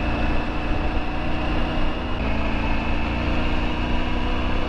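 Triumph Tiger 900 GT's three-cylinder engine running at a steady cruise while riding, over a steady rushing noise. Its pitch steps up slightly about two seconds in.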